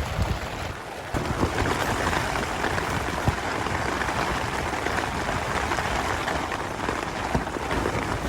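Heavy rain pattering on tent fabric, with strong gusting wind rumbling against the tent and microphone.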